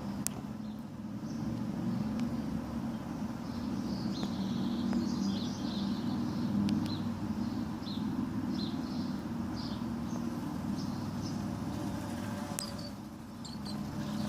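Small birds giving quick, short high chirps in clusters over a steady low hum.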